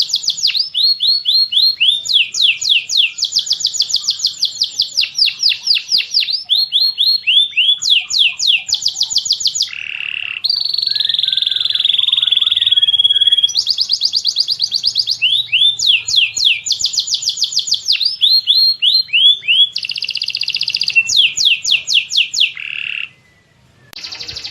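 Bird-song masteran of tengkek buto, cililin and canary: phrases of rapid, repeated, high-pitched falling notes, several a second. A more warbling, twittering phrase comes about ten seconds in, and there is a short break near the end.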